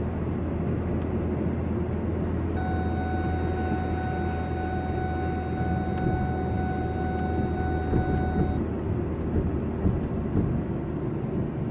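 Truck running slowly, heard from inside the cab as a steady low rumble. About two and a half seconds in, a steady electronic warning tone from the vehicle starts, holds for about six seconds, then cuts off.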